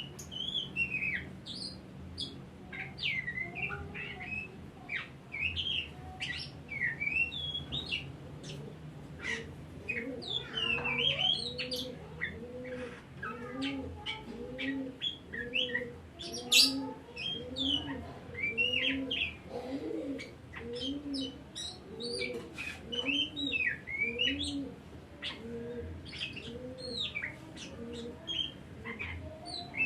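Oriental magpie-robin (kacer) singing: a dense run of quick, varied whistles and chirps. Behind it, a low two-part note repeats about once a second from about a third of the way in until near the end.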